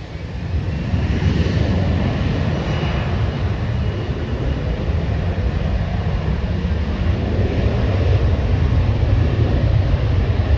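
Jet airliner passing close, a loud low rumble of its engines that swells within the first second and keeps building slightly, with a faint engine whine above it.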